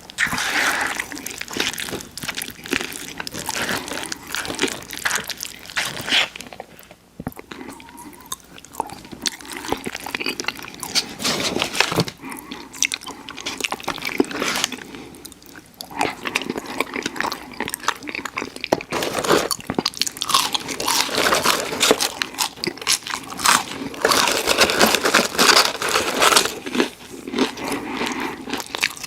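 Close-miked eating of crunchy fried food: repeated crunching bites and wet chewing, with brief quieter pauses between mouthfuls.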